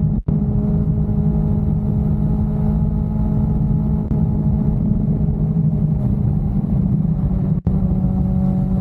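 Sport motorcycle engine running at steady revs while cruising, with low road and wind rumble. The sound cuts out twice for an instant, once just after the start and once near the end.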